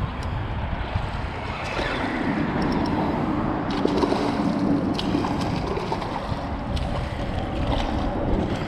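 Wind buffeting the microphone over water noise aboard a small fishing boat, with a few light clicks.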